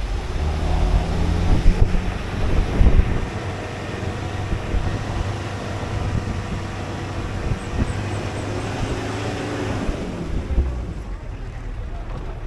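Tour shuttle's engine running as it drives, a steady low rumble, with wind buffeting the microphone.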